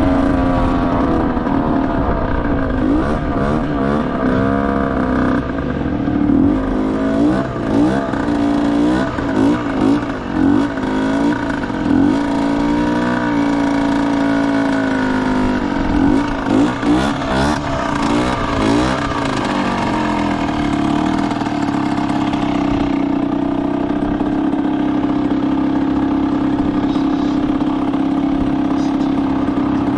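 Derbi Senda motorcycle engine running, revved up and down repeatedly for a long spell, then settling to a steady idle for the last several seconds.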